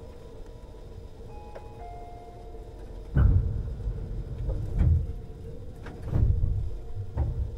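Tobu 50090 series train heard from under the car floor: a low rumble with a few short steady tones, then from about three seconds in four heavy low thumps that come closer together.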